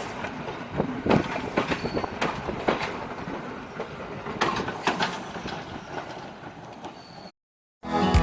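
Train rolling past and pulling away, its wheels knocking irregularly over the rail joints in a clattering, noisy rush that slowly fades. It cuts off shortly before the end, and music starts.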